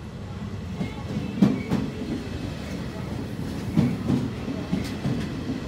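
Electric-hauled Italian regional passenger train pulling into the station, with a low rumble and its carriage wheels knocking over rail joints in quick pairs. The train grows louder as it comes alongside.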